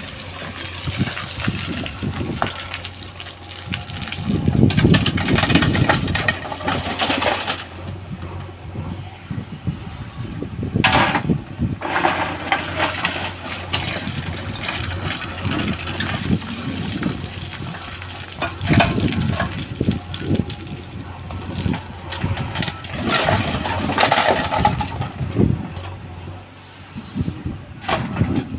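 A JCB backhoe loader's diesel engine running, with stones scraping and clattering as they are scooped and tipped into a tractor trailer, in uneven loud surges.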